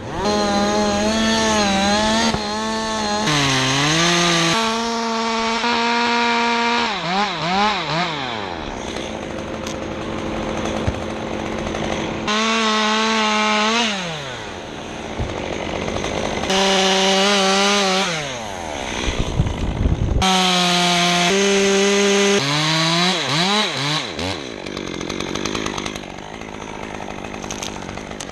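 Two-stroke chainsaw run at full throttle through several cuts, its steady high engine note held for a few seconds at a time, then dropping away toward idle and revving back up, about five times; it runs quieter near the end.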